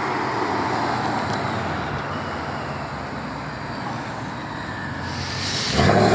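Supercharged Ford Mustang V8 engines running as the cars pull in. There is a rising hiss about five seconds in, then a sudden loud burst near the end.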